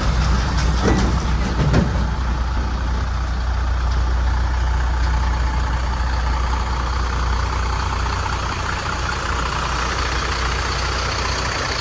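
Heavy vehicle engine idling steadily with a deep, constant hum. A couple of short sharp sounds come about one and two seconds in.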